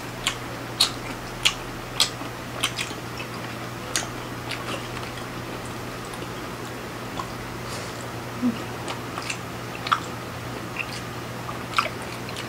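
Close-up wet chewing and mouth smacks from two people eating sweet chili octopus tentacles with their hands: irregular sharp smacks, thickest in the first few seconds and sparser later. A steady low hum runs underneath.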